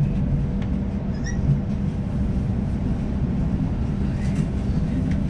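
Sydney suburban electric train running: a steady low rumble with a faint constant hum.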